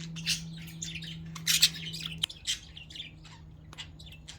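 Several pet budgerigars chirping and chattering, in a quick run of short, high calls that thins out after about two seconds. A steady low hum runs underneath and drops in level a little past the middle.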